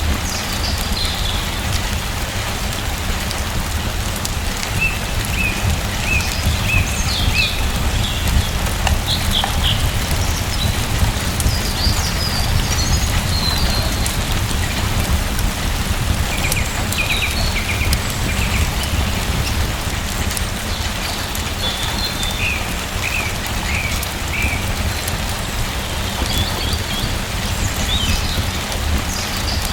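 Steady rain falling over a deep constant rumble, with small birds chirping now and then.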